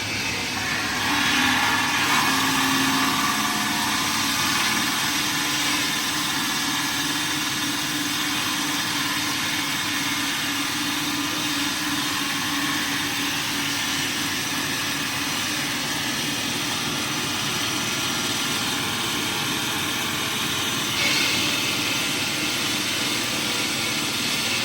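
A motor running steadily, with a brighter, louder shift about three-quarters of the way through.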